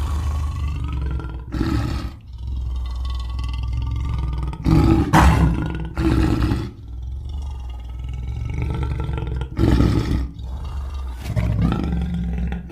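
Custom creature sound effects for a gorilla-giraffe hybrid monster: a continuous run of deep growls and roars over a steady low rumble, with louder roars about five seconds in and again about ten seconds in.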